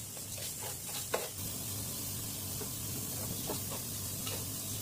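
Butter and sugar sizzling in a pan while a spoon stirs and scrapes it, with a few light clicks. The sugar is melting down for caramel.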